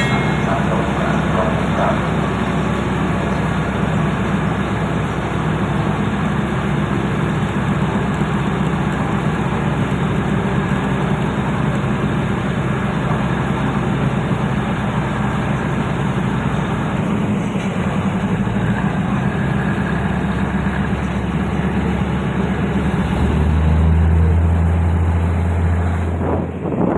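Diesel railcar running, heard from on board: a steady low engine drone with rail and running noise. About 23 seconds in the engine's low note swells louder for a few seconds, then drops back near the end.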